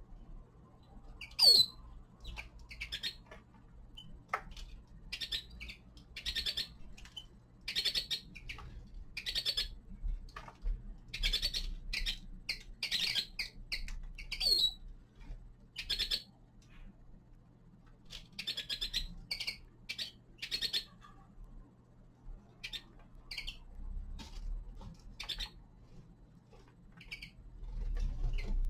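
Caged finches giving many short chirping calls, scattered unevenly, with a steady low hum underneath.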